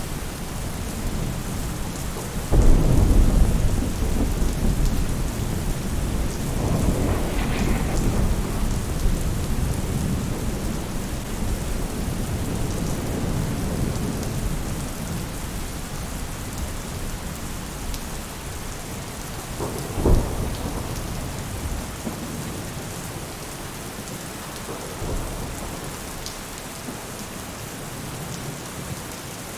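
Steady rain falling on a roof with thunder rumbling through it: a sudden loud roll about two and a half seconds in, another around seven seconds, a short sharp crack around twenty seconds and a fainter rumble near the end.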